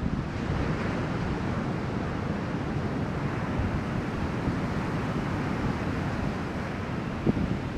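Steady rush of ocean surf from a shoulder-to-head typhoon swell, with wind noise on the microphone.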